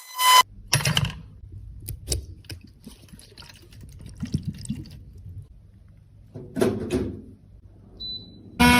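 Small handling sounds of liquid being poured and dripping, with light clicks and scrapes. Near the end a small motor starts with a loud steady whir.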